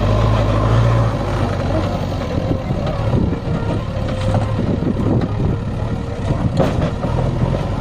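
Heavy diesel engine running steadily, with a few sharp knocks and clatter over it.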